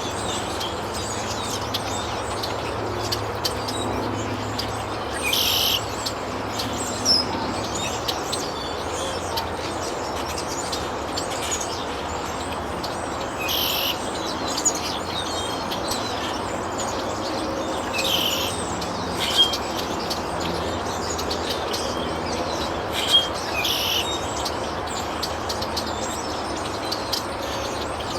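Wild birds chirping, with short high calls every few seconds over a steady background rush.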